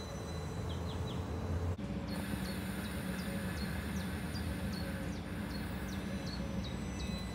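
Northern Class 333 electric multiple unit running slowly into the platform, with a steady low hum from the moving train.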